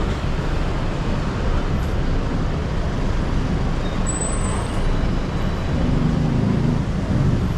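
Steady street traffic: a continuous low rumble of passing motor vehicles.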